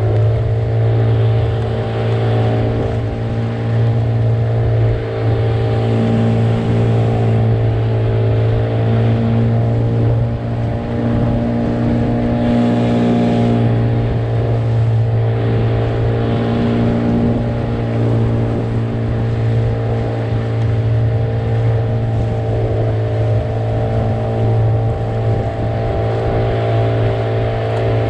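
Engine running steadily at a constant speed, with an even low hum and no change in pitch.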